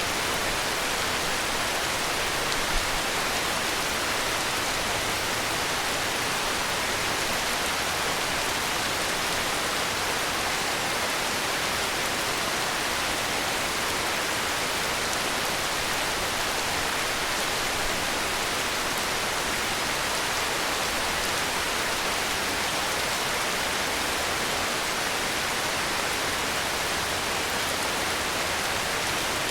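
Heavy rain falling in a steady, even hiss with no breaks or changes in level.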